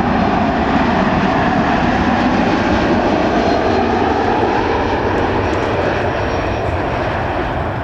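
Jet airliner's engines running loud as the aircraft passes close by, easing off slightly near the end.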